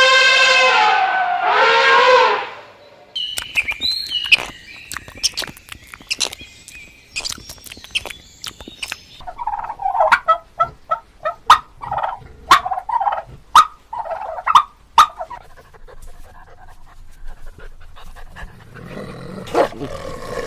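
A sequence of different animal calls, one after another: first a long, held call, then high chirping with clicks, then a run of short, repeated calls.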